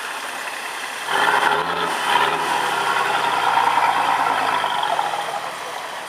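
Off-road 4x4 engine revving up about a second in, then running steadily before fading away about five seconds in.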